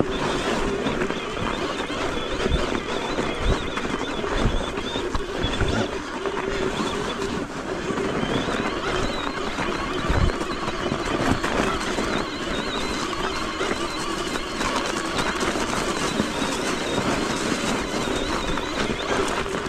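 Electric mountain bike being ridden over a snowy, rough trail: a constant rushing noise with the tyres and bike frame crunching and rattling unevenly over the ground.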